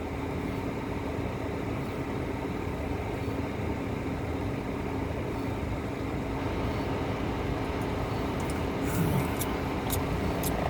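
Steady low hum of a running car engine heard inside the cabin, even throughout, with a couple of faint steady low tones.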